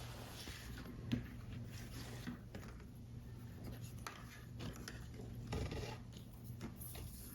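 Paper model parts being handled: soft scattered taps and short rustles of card and paper, with a small knock about a second in and a longer rustle about five and a half seconds in.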